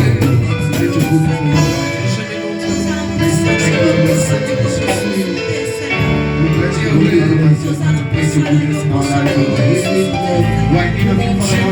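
Church worship music: a band playing with bass and percussion, with some singing.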